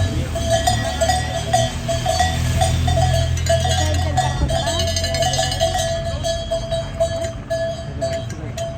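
Handheld cowbells shaken rapidly and without a break by roadside spectators, clanging over and over. Under them a low rumble fades out about halfway through.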